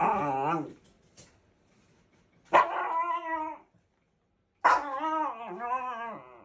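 Shiba Inu giving three loud, wavering, howl-like calls: a short one at the start, then a longer one about two and a half seconds in, and a longest one near the end.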